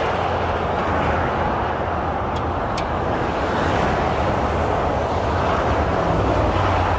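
Honda Civic's inline-four engine running steadily with a low hum, after being driven about 4000 miles without engine oil; it is making a little bit of noise, and the owners fear it may finally have given out.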